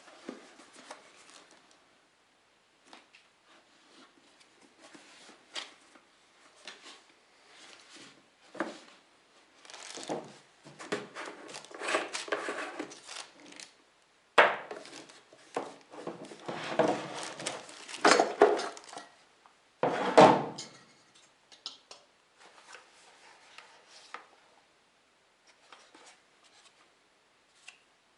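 Parts and packaging of a diesel heater kit being handled: irregular clicks, knocks and rustling. It grows busier in the middle, with a sharp knock about twenty seconds in.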